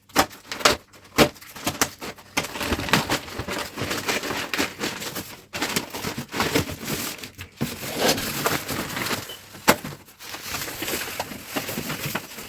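Packaging being pulled apart and broken up while a washing machine is unboxed: continuous crunching and crackling with many sharp cracks and snaps.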